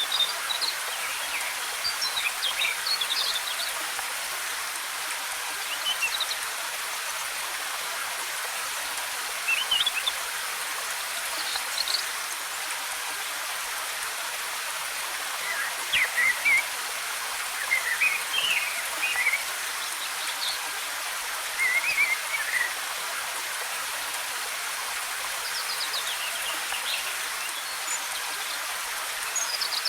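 Waterfall's water cascading in a steady rushing hiss, with forest birds chirping in short bursts of quick notes every few seconds.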